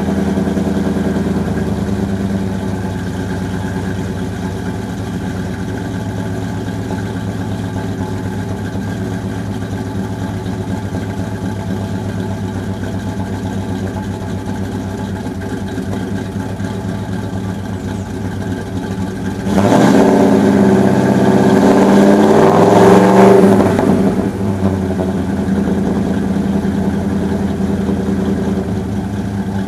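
Ford 5.0 (302) V8 with a custom camshaft, headers and dual 2.5-inch exhaust, idling with a lopey cam idle. About two-thirds through it is revved for a few seconds, the pitch rising and falling, then it drops back to idle.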